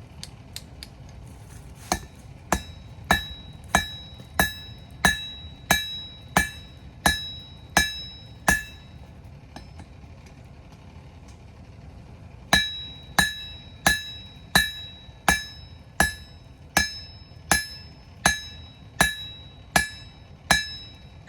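Hammer striking red-hot rebar on an anvil as it is forged into a knife blade, each blow followed by a metallic ring. A run of about eleven steady blows, a pause of about four seconds, then another run of about fourteen.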